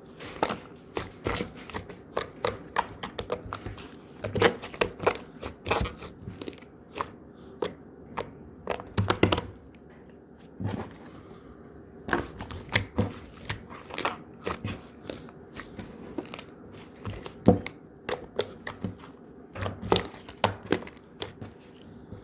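Irregular crinkling and clicking of something being handled, in uneven clusters of sharp crackles.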